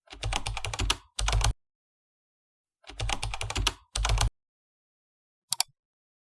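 Rapid clicking like typing on a keyboard, in two bursts of about a second each, then a single click near the end.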